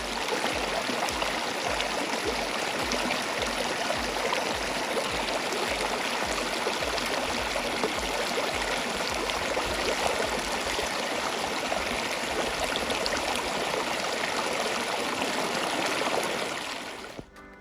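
Steady rush of flowing water, cutting off abruptly near the end.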